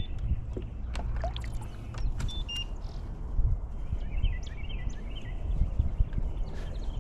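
Low rumble of wind and water noise on a kayak-mounted microphone, with scattered light clicks and knocks and a few faint high bird chirps.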